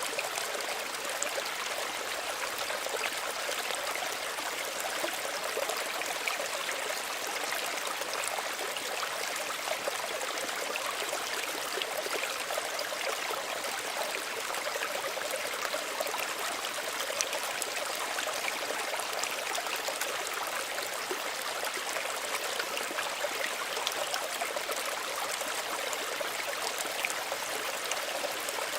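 Small stream running steadily over stones, a continuous gentle babble and trickle of water.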